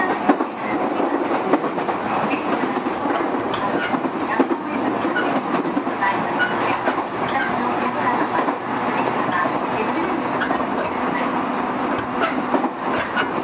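JR E231 series commuter train running between stations, heard from inside the car: a steady rumble of wheels on the track with scattered clicks and knocks.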